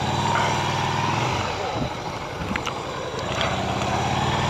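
Motorcycle engine accelerating: the revs rise, dip briefly at a gear change, then rise again.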